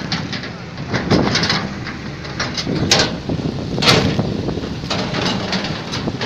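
Excavator working: a steady engine hum with irregular metallic knocks and clanks, the loudest about 3 and 4 seconds in.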